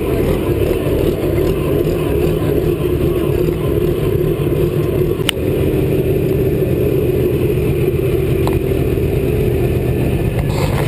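Massey Ferguson 1130 tractor's diesel engine running loud and steady, with one sharp click about five seconds in.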